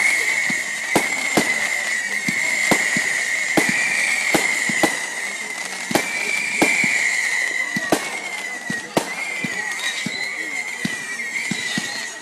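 Firework display: irregular sharp bangs and crackles from exploding fireworks, several a second at times, over a steady high wavering whistle.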